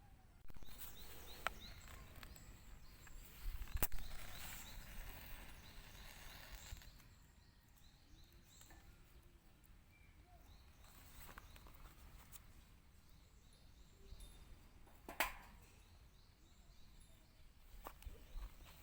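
Quiet outdoor ambience with short runs of small bird chirps in the first few seconds and a few sharp clicks and knocks, the loudest about four seconds in and again near fifteen seconds.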